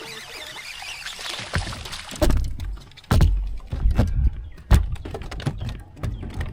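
A series of irregular knocks and dull thumps, about seven over several seconds, typical of gear being handled against a kayak's hull, over a light hiss.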